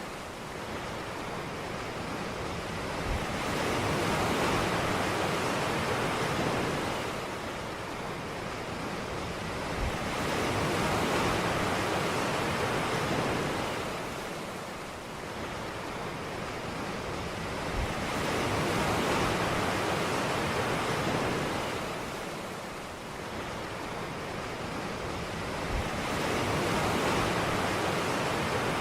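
Ocean surf washing onto a beach, swelling and falling back in slow surges about every seven to eight seconds.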